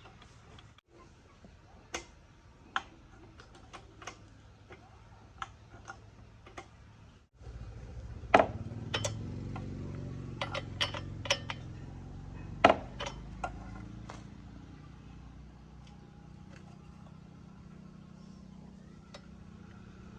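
Scattered sharp metallic clinks and taps, like hand tools on metal machine parts. About seven seconds in a low steady mechanical hum starts and runs on beneath further clinks, with two loud knocks standing out.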